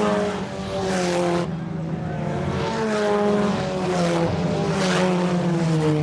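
IMCA Sport Compact race cars' four-cylinder engines running hard on the track, several engine notes overlapping, each pitch sliding slowly down as the cars go by.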